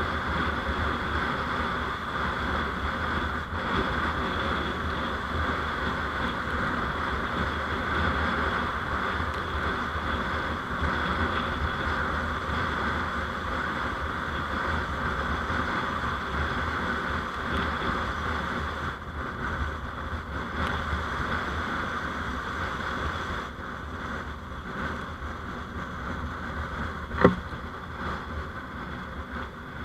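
Steady road and running noise of a moving vehicle picked up by a dashcam, easing a little in the last few seconds, with one sharp click a few seconds before the end.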